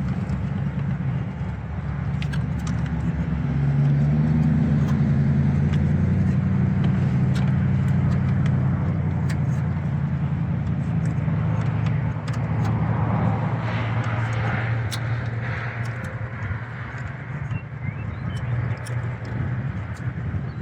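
A steady, low engine hum, with scattered light clicks and knocks over it.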